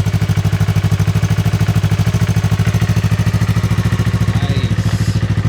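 Yamaha R3's 321cc parallel-twin engine idling steadily with an even pulsing beat, with a short rattle near the end.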